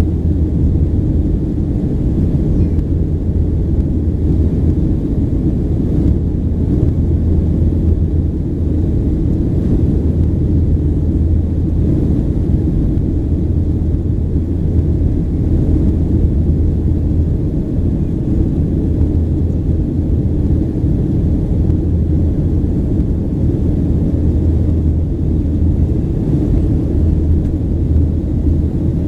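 Steady low rumble of a Boeing 737-800's CFM56-7B engines and airflow, heard inside the passenger cabin.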